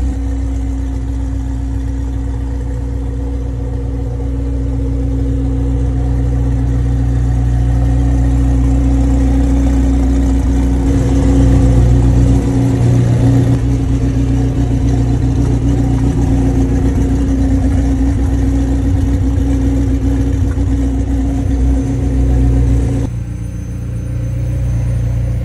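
Car engine idling steadily, a little louder about halfway through; one part of the drone drops away near the end.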